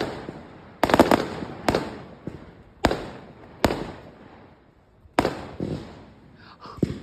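Aerial fireworks going off: a string of sharp bangs, some in quick clusters, each followed by a rolling echo that dies away. There is a short lull a little after the middle.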